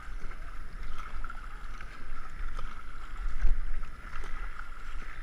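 Water rushing and splashing around a racing canoe as it is paddled downriver, with scattered splashes of paddle strokes and a low wind rumble on the GoPro microphone.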